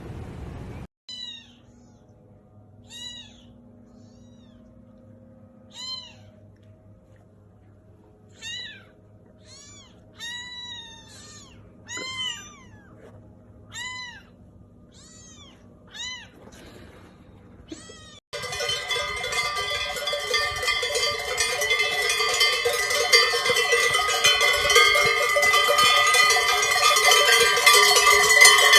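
An animal calling over and over, about a dozen short high calls that rise and fall in pitch, one every second or two. About eighteen seconds in, a much louder steady sound of many held ringing tones cuts in and takes over.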